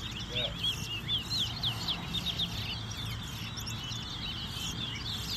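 Many small birds chirping at once: a dense, continuous chatter of short, high, overlapping chirps.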